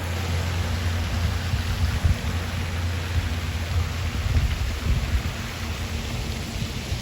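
Wind buffeting the microphone outdoors: a fluttering low rumble over a steady rushing hiss.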